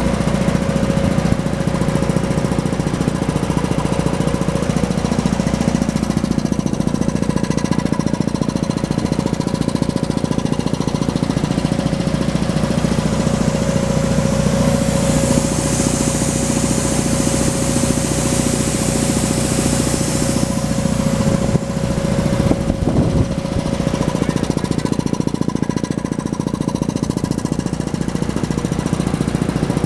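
GZ6935 air compressor running steadily with a rapid, even pulsing from its piston strokes. A high hiss of air joins in for about six seconds in the middle, and the running wavers briefly just after it.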